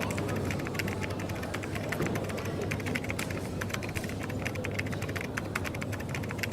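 Computer keyboard typing: a quick, irregular run of key clicks over a steady low hum of café background noise.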